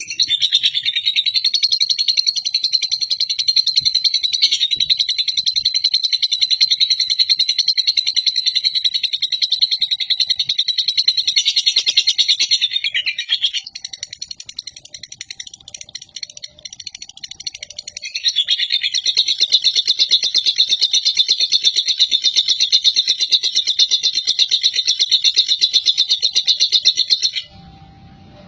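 Lovebird singing in long unbroken 'ngekek' bouts, a fast, high-pitched rattling chatter: one bout of about thirteen seconds, a few seconds of softer chatter, then a second bout of about nine seconds that cuts off suddenly near the end.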